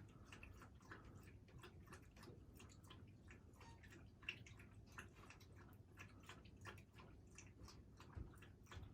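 Near silence with faint, irregular small clicks and taps, several a second.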